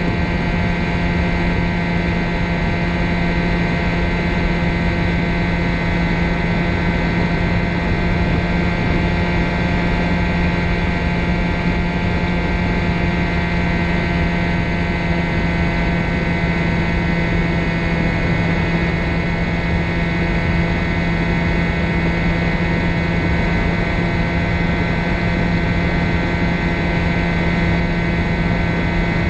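Ultralight trike's engine and propeller running steadily at a constant pitch, over a rushing noise.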